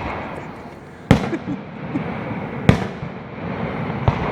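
Fireworks bursting: three sharp booms, about a second in, near the middle and near the end, each trailing off in a rolling echo, over a continuous low rumble of the display.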